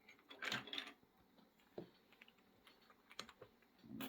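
Small objects being handled and set down on a workbench: a brief rattle, then a few light clicks and a sharper knock near the end.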